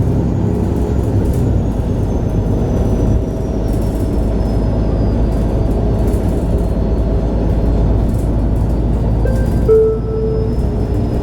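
MAN A23 Lion's City G articulated city bus running, a steady low engine and road rumble, with a short brighter tone about ten seconds in.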